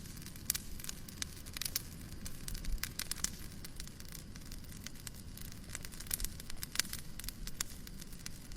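Wood fire crackling in a fireplace: irregular sharp pops and snaps over a steady low rumbling hiss.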